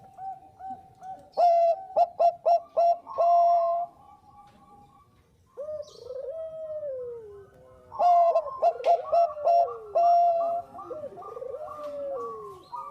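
Zebra dove (Bangkok perkutut) cooing: two loud runs of quick stuttering notes, about a second and a half in and again about eight seconds in, with slower falling, slurred coos between and after them.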